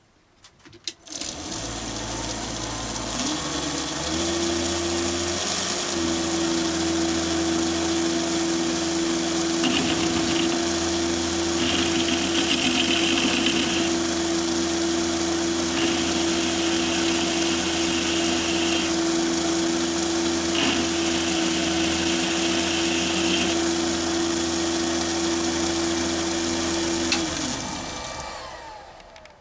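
Chinese mini lathe motor spinning up about a second in, running steadily with a high whine, and winding down near the end. A higher hiss comes and goes three times while it runs.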